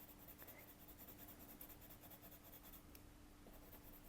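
Faint scratching of a Derwent Graphitint pencil on paper as a colour swatch is laid down, over a faint steady hum.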